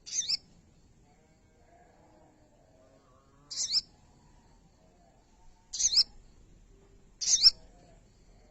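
Sogo bird calling: four short, sharp, high-pitched calls, each a quick sweep in pitch, spaced a few seconds apart, the last two about a second and a half apart.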